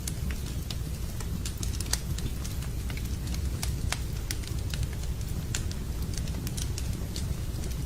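Wood campfire crackling, with many sharp irregular pops and snaps, several a second, over a steady low rush.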